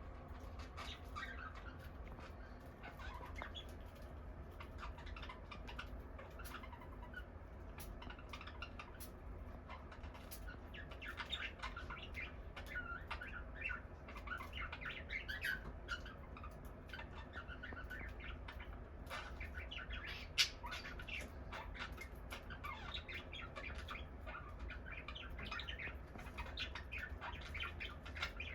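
Cockatiels chirping, many short calls one after another, with a single sharp click about twenty seconds in.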